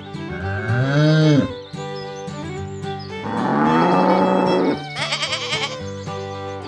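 Background music with farm-animal calls over it: a call that rises and falls in pitch about half a second in, a longer one about three seconds in, then a quavering high call.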